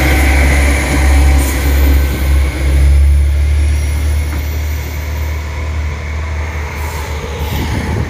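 A train running past, a steady low rumble that is loudest for the first three seconds and then fades as it moves away.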